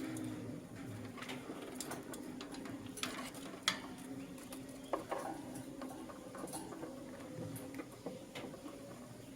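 Lutino lovebird chicks giving short, scattered squeaks and clicks, with the sharpest about halfway through, over a steady low hum.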